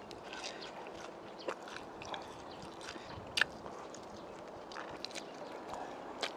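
Close-up chewing and biting of spicy braised pork rib, with soft wet mouth sounds and scattered small clicks; one sharper click a little past three seconds in.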